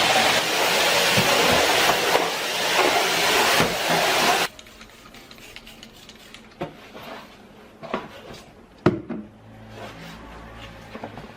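A loud, steady hiss that cuts off suddenly about four and a half seconds in, followed by a few light knocks and clicks, the sharpest near the end.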